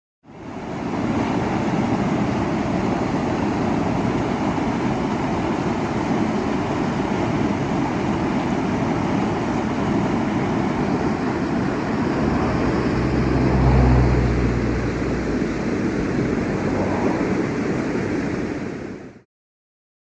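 Rushing water of a mountain stream: a steady, even roar that fades in at the start and cuts off near the end. A low rumble swells for a few seconds about two-thirds of the way through.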